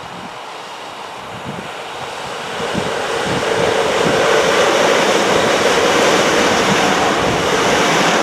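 A train running past on the line: the noise of its wheels on the rails swells from about two and a half seconds in and then holds loud and steady. Wind buffets the microphone throughout.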